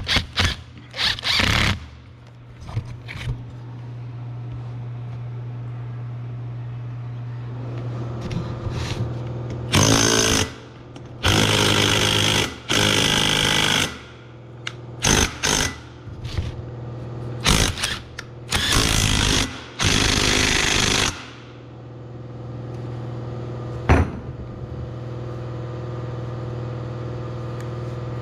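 A power tool run in about eight short bursts, each lasting under a second to about two seconds, over a steady low hum.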